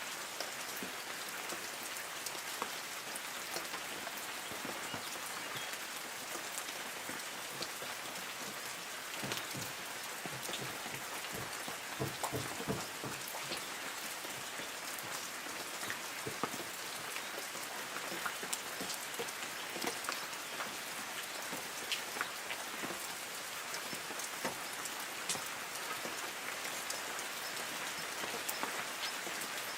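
Light rain falling on trees: a steady hiss of rain with many separate drops ticking on leaves, a little heavier patch of drops near the middle.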